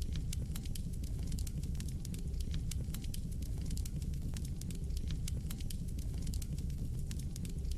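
Wood fire burning in a fireplace, with a steady low rumble of the flames and frequent irregular sharp crackles and pops from the logs.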